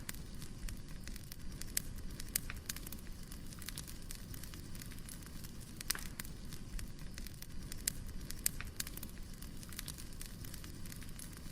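Wood fire crackling: irregular sharp pops and snaps over a low, steady rumble of burning logs, with a louder snap about halfway through.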